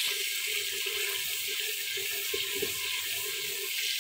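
Onion, tomato and yogurt paste sizzling in hot desi ghee in a clay handi, a steady frying hiss, with a wooden spoon stirring it. A steady low hum runs underneath.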